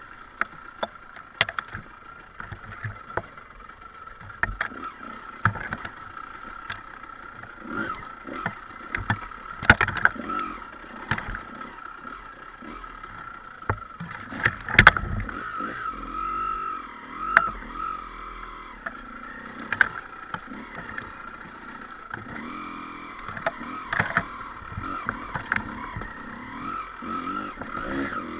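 Trail motorcycle riding on rough ground: the engine rises and falls in pitch under a steady high hum, with frequent sharp knocks and clatter from the bike over the terrain.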